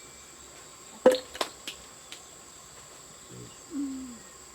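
Steady high insect chirring throughout, with a sharp loud knock about a second in followed by three fainter clicks, and a brief voice-like sound near the end.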